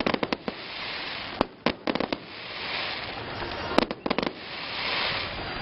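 Aerial fireworks bursting overhead: three quick clusters of sharp cracks, about two seconds apart, with a steady hiss between them.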